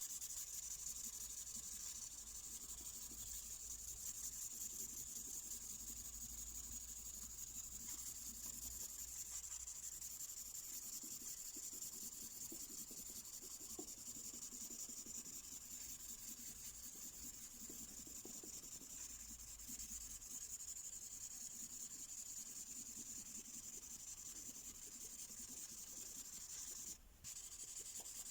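Felt-tip ink pen colouring on paper in continuous back-and-forth strokes, making a steady scratchy hiss. The strokes stop briefly near the end.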